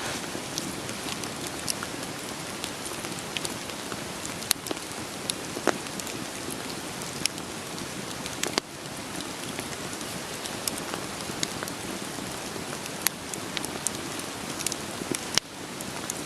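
Steady rain falling, with the sharp, irregular pops and crackles of burning firewood scattered through it.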